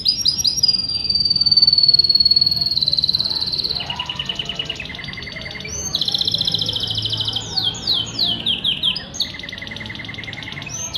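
Domestic canary singing a continuous song of fast trills, each a rapid run of one repeated note that changes pitch from trill to trill. Near the start there is a long, slowly falling whistle, and later a string of quick downward-sweeping notes.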